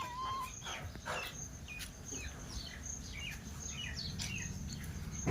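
Pet parrot chirping: a scattered run of short, high chirps, each sliding down in pitch, over a steady low hum.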